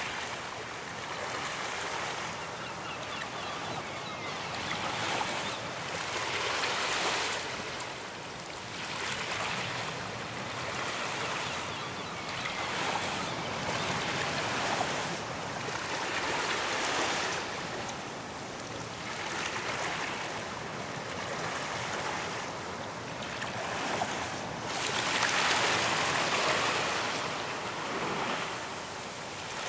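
Ocean waves washing onto a beach, a continuous hiss of surf that swells and ebbs every couple of seconds, with a bigger wave breaking near the end.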